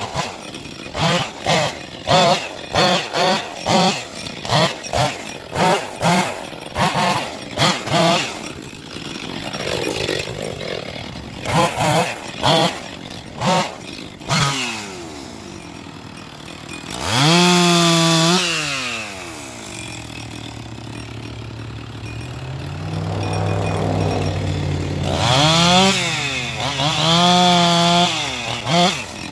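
Chainsaw revving in short bursts, about two a second, for the first several seconds. It then revs up and down in longer pulls, idling between them.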